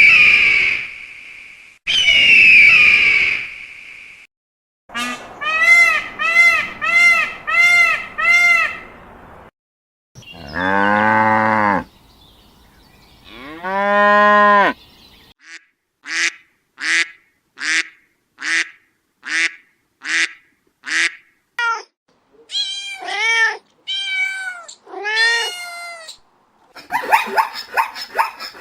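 A run of different animal calls, one clip after another: two neighs at the start, then several series of repeated calls, including two longer, lower calls about halfway and a string of short, evenly spaced calls after them.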